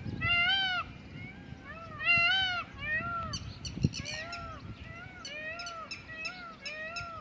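A flock of Indian peafowl calling: short, arched calls repeated again and again, with several birds overlapping from about three seconds in. Wind rumbles on the microphone underneath.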